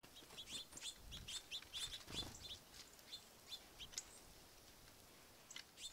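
Faint chirping of small birds: a quick run of short, high chirps over the first two seconds or so, then scattered single chirps.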